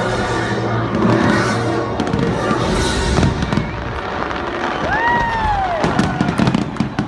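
Fireworks going off, a dense crackle with sharp bangs that cluster near the end, over loud music. About five seconds in, a whistling tone rises and then falls.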